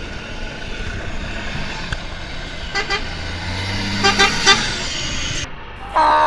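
Heavy truck's V8 engine running with an open exhaust, with a few short horn toots about three seconds in and again around four seconds in. The sound cuts off at about five and a half seconds, and something louder starts just before the end.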